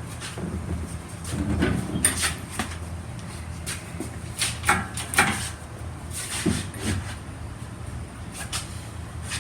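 Scattered metal clunks and knocks from an engine hoist and its hanging engine being shifted and positioned, over a low steady hum.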